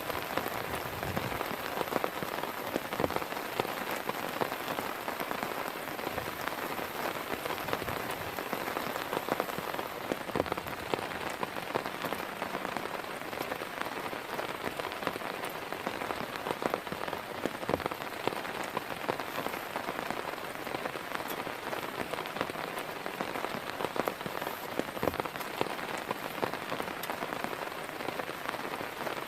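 Heavy, steady rain falling, with many individual drops striking a surface close to the microphone.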